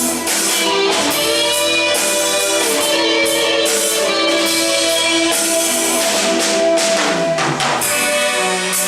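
Live band playing an instrumental passage: sustained chords over drums and cymbals, with a falling slide in pitch near the end.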